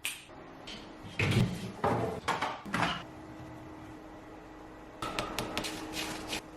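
Refrigerator door and contents being handled: a run of knocks and rattles in the first three seconds, then a cluster of clicks about five seconds in, over a faint steady hum.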